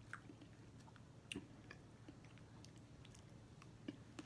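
Quiet chewing of food, with a few faint clicks and taps: a couple about a second and a half in and a couple near the end.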